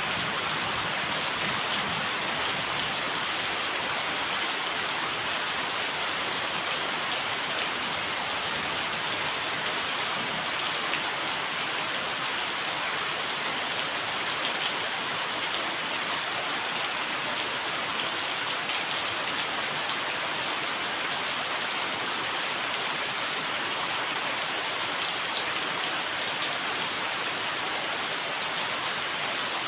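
Steady rain falling: an even hiss, flecked with many small ticks of individual drops, holding at the same level throughout.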